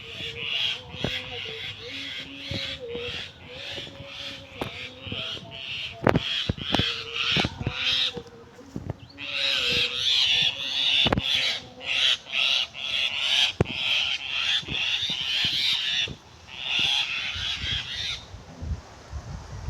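Birds calling harshly in quick, repeated runs, with a few sharp knocks in between.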